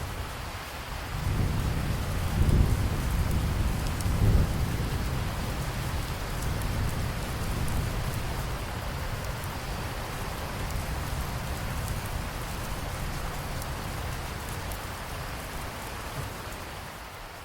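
Steady rain falling, with a long low rumble of thunder that builds about a second in, is loudest over the next few seconds, then slowly fades under the rain.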